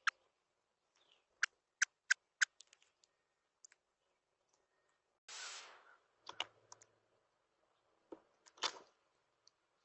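A run of sharp clicks and taps, four in quick succession about one and a half to two and a half seconds in, a short rustle about five seconds in, then a few more taps and a brief rustle near the end.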